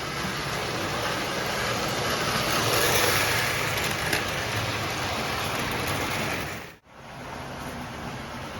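O scale Lionel model train running on the track: a steady whir and rumble of the locomotive's motor, gears and wheels on the rails. The sound drops out abruptly near the end and resumes quieter.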